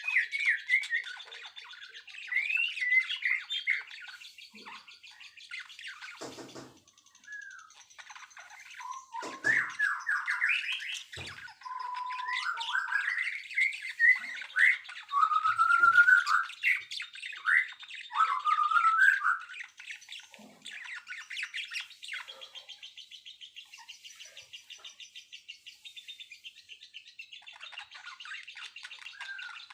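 Several songbirds singing and chirping in varied, quick whistled phrases, loudest through the first two-thirds. After that the song drops to fainter, rapid high chirping.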